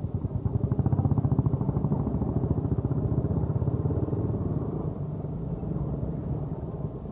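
Motorcycle engine running with a quick, even beat of firing pulses. It is loudest about a second in, then eases off slowly.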